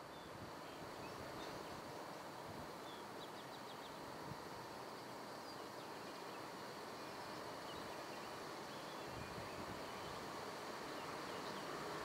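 Faint open-air ambience with small birds chirping, under the distant sound of an approaching electric passenger train that grows slowly louder.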